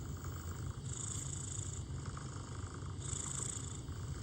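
A cat's purr, a steady low rumble that swells and eases in slow waves about every two seconds.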